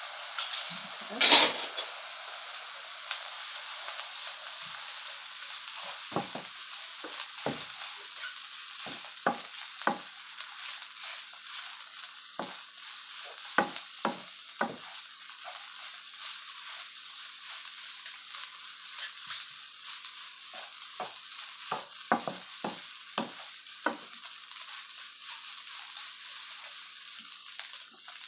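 Egg fried rice sizzling steadily in a frying pan while a wooden spatula stirs it, knocking and scraping against the pan in short irregular strokes. There is a sharp clink about a second in.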